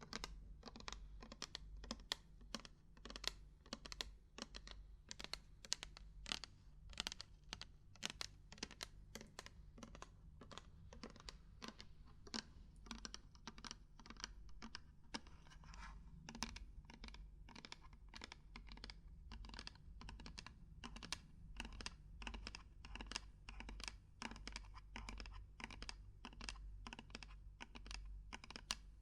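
Quick, irregular knocking and tapping on hard objects, several light strikes a second.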